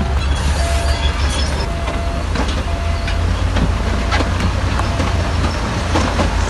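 Heavy diesel earthmoving machine running with a deep, steady rumble and scattered metal clanks, while a reverse alarm beeps about once a second until about five seconds in.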